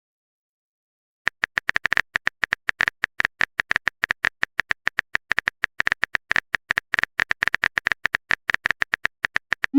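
Typing sound effect for a chat: rapid, irregular keyboard clicks, several a second, starting about a second in, ending in a short rising swoosh as the message is sent.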